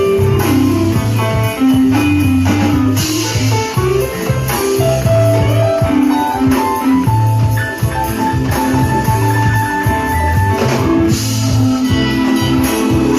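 Live band playing an instrumental groove during a soundcheck: guitar over a low line of held bass notes, with jingling percussion.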